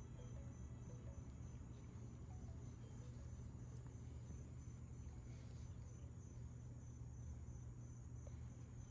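Crickets chirping in a steady, evenly pulsed high trill, over a low steady hum.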